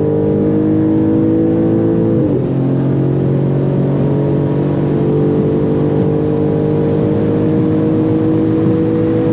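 Swapped-in Audi RS6 4.0-litre twin-turbo V8 in an Audi S5 accelerating hard at speed: the engine note climbs steadily, drops with an upshift about two seconds in, then climbs again.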